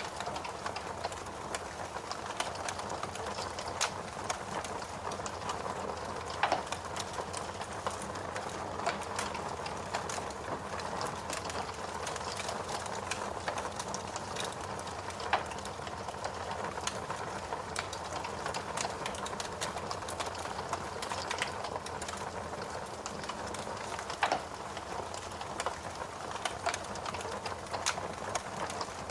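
Steady rain mixed with a wood fire crackling in a fireplace, with a few louder pops spread through.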